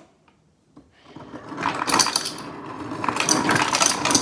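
Refrigerator door ice dispenser running, ice clattering into a glass. It starts about a second in and grows thicker and louder.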